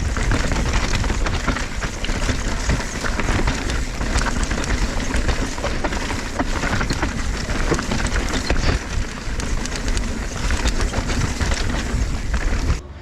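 Mountain bike riding down a rough dirt trail: a steady rush of wind and tyre noise with a dense clatter of small knocks and rattles from the bike. The noise cuts off suddenly just before the end.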